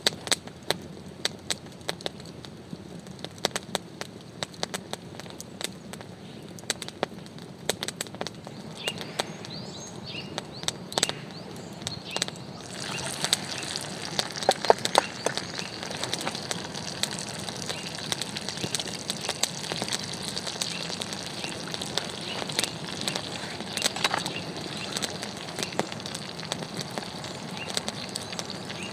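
Wood campfire crackling, with many irregular sharp pops. About halfway through, a steadier hiss rises underneath.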